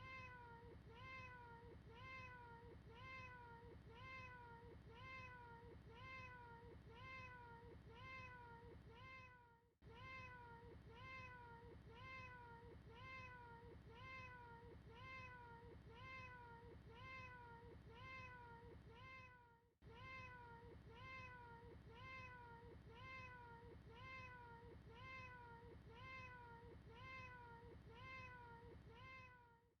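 The same short cat meow repeated over and over in a loop, faint, about two a second, each a quick bend in pitch. The loop dips out briefly about every ten seconds and starts again at once.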